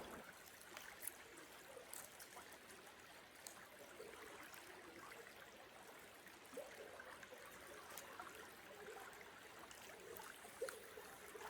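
Faint creek water trickling and flowing, with a few small clicks.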